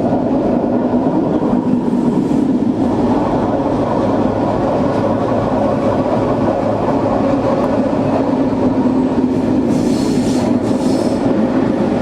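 A Swiss mountain railway train running with a steady loud rumble of wheels on track. About ten seconds in there are two brief high-pitched wheel squeals.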